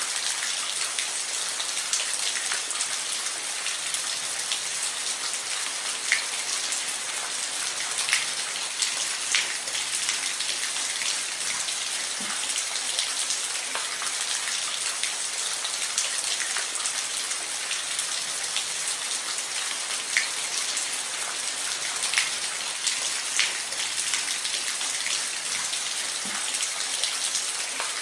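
Steady rain falling on a roof, an even hiss with individual louder drops plinking now and then.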